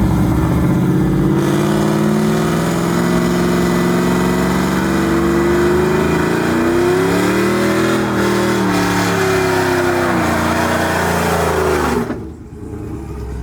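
Truck engine held at high revs during a burnout, pitch slowly climbing to a peak about two-thirds of the way through, then wavering and dropping, over a steady rushing noise. The engine is let off abruptly near the end.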